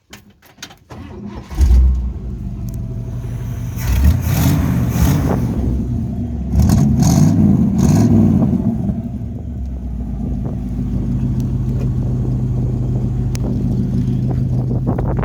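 1958 Chevrolet Bel Air's 283 V8 starting about a second and a half in and running. It is revved twice, then settles to a steady idle.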